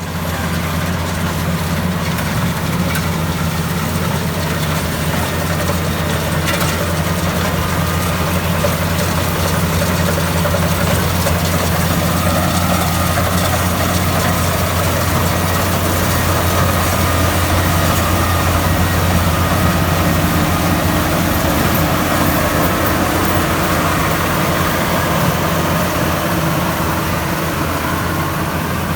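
Maxxi Bimo 102 rice combine harvester running steadily, a loud, even engine drone with a strong low hum, starting suddenly.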